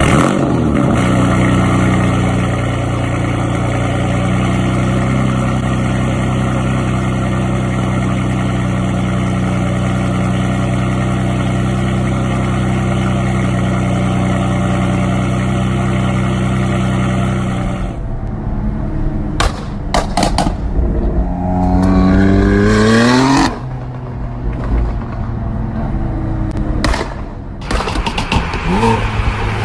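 BMW M4 F82's twin-turbo straight-six running steadily through its exhaust for about eighteen seconds, then revved: a rising rev that cuts off sharply, with rough uneven running and a few sharp cracks around it.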